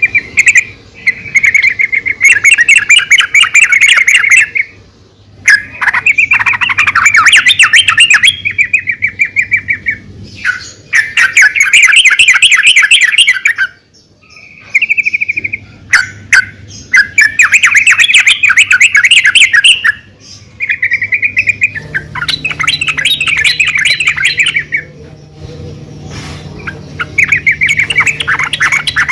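Yellow-vented bulbul, a female by the title's account, giving repeated bouts of rapid chattering calls. Each bout lasts a second or a few, with short pauses between bouts.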